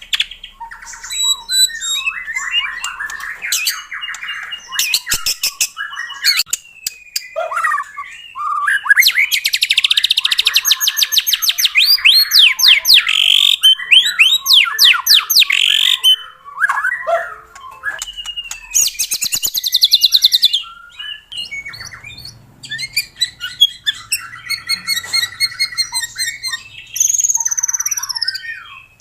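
White-rumped shama singing a loud, varied song: clear whistled phrases broken up by fast rattling runs of rapidly repeated notes and chattering passages.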